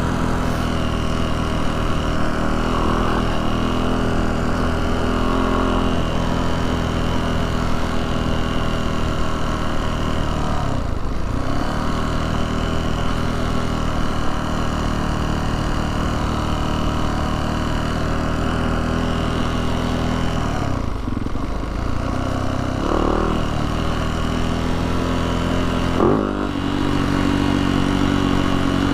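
Yamaha YZ450F dirt bike's single-cylinder four-stroke engine running steadily as the bike is ridden. The engine note drops and comes back twice, about a third and two-thirds of the way through, as the throttle is rolled off and back on.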